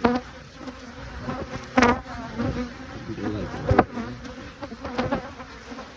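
Honeybees buzzing around an open hive: a steady hum, with a few sharp knocks about two and four seconds in.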